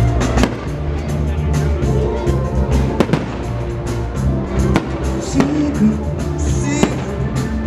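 Fireworks going off in a string of sharp pops and bangs over loud music with a steady bass line.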